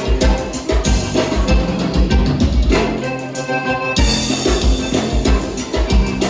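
Live gaúcha dance-band music in an instrumental passage: accordion and bass over a steady kick-drum beat. The drums drop out for about a second around three seconds in.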